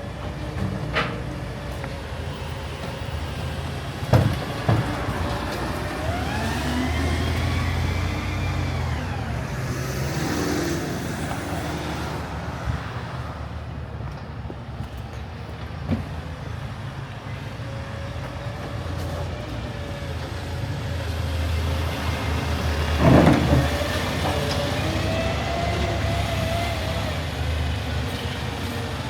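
Garbage truck's diesel engine running steadily, with hydraulic whines rising and falling as its lifting gear works. Sharp metallic bangs come about four seconds in and again near the end.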